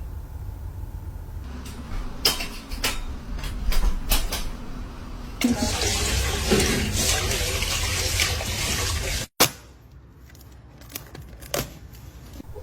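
A loud rush of running water, like a toilet flushing, lasting about four seconds and cut off suddenly; a few knocks and clicks come before it.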